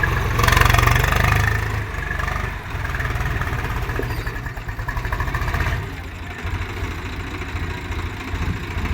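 Tractor engine running, louder for the first second or two, then settling to a steady low chugging idle.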